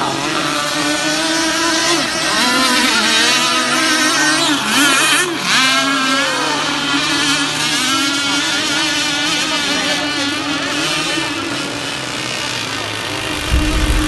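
Several two-stroke petrol engines of radio-controlled racing powerboats running at high revs together, their pitches wavering against each other. About five seconds in, one boat passes close with a quick swoop in pitch.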